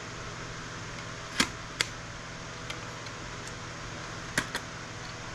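Sharp clicks of a hand tool snapping components off a circuit board, in two pairs about three seconds apart, over a steady background hum.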